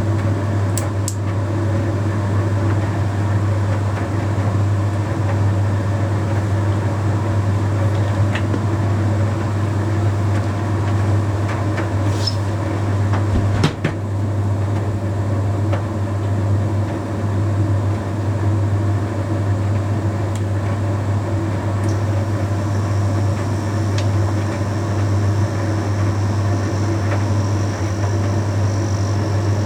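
Bosch Series 6 heat pump tumble dryer running a Shirts cycle on low heat: a steady low hum under an even running noise, with a few light clicks. A faint high whine joins about two-thirds of the way through.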